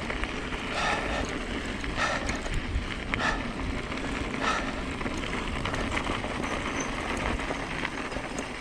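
Mountain e-bike rolling down a wet dirt trail: a steady rush of wind on the microphone and tyre noise, with a few short rattles about a second apart in the first half.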